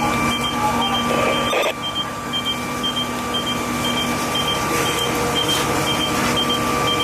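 An electronic warning beeper sounding a short high beep about twice a second over a steady machine hum with several held tones, with a brief break in the sound about a second and a half in.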